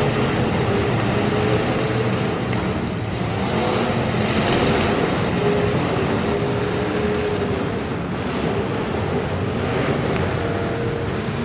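Demolition derby cars' engines running together, a steady loud din with no sharp crashes.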